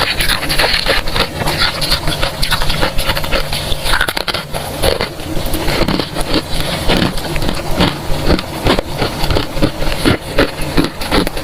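Freezer frost being bitten and chewed: a dense, continuous run of crunches and crackles.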